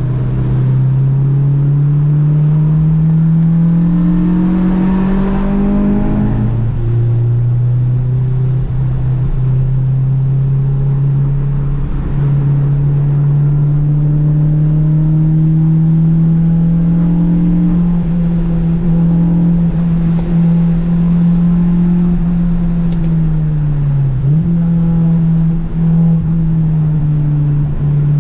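Honda Civic's engine pulling hard on track, heard from on board. It revs up for about six seconds, drops sharply on an upshift, then holds a long, slowly rising pull, with a brief lift and dip in revs near the end.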